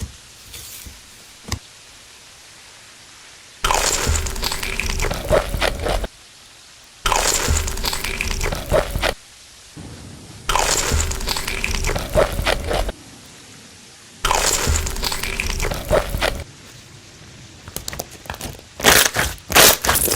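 Close-miked chewing of crispy food, mukbang-style: four bouts of loud wet crunching, each two to three seconds long with short quiet pauses between, then scattered sharp crunches that grow loud near the end.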